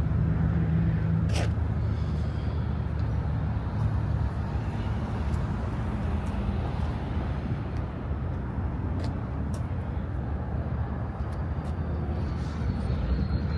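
Steady low rumble of motor-vehicle noise, with a few faint clicks.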